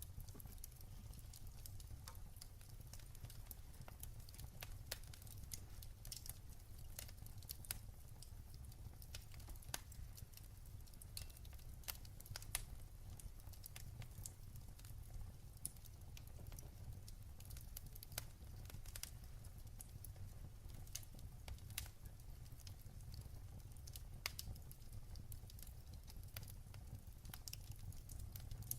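Wood fire burning in a fireplace: frequent irregular sharp crackles and pops over a low steady rumble of the flames.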